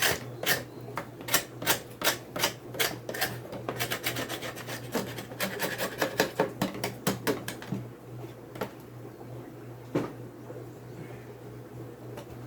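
Propolis being scraped off the top of a wooden beehive, in quick, irregular scraping strokes for about eight seconds. Near the end there is a single sharp knock.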